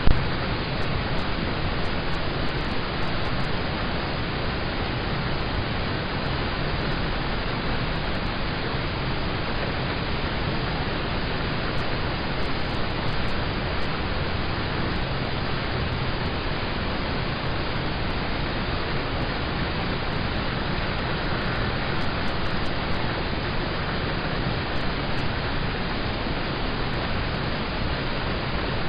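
Steady rain falling on a car, heard from inside the cabin as an even hiss with faint scattered drop ticks, and one brief louder knock at the very start.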